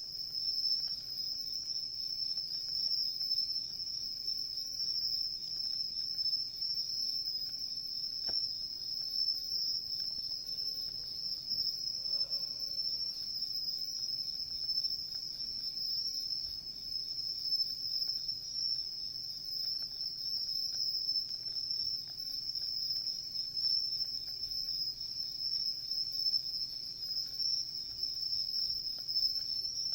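Crickets trilling in a continuous, steady high-pitched chorus, with an occasional faint crackle from the wood fire.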